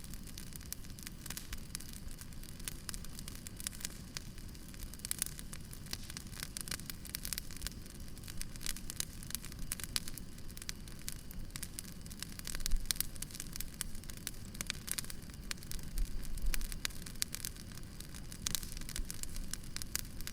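Wood fire crackling, with a steady stream of sharp pops and snaps, and a couple of soft low thumps a little past the middle and about two-thirds of the way through.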